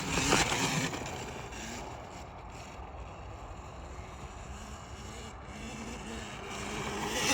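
A small dirt bike's engine running as it is ridden, its pitch rising and falling. It fades after the start and grows louder again near the end.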